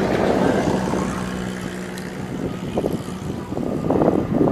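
Diesel-hauled passenger train running away on a curved track: a steady low engine drone over the rumble of the train, with louder swells of rumble near the end.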